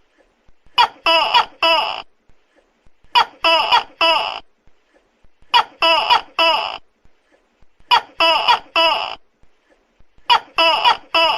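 Tokay gecko calling loudly: a short lead-in note followed by three quick "tokek" syllables, the group repeating at an even pace about every two and a half seconds, five times.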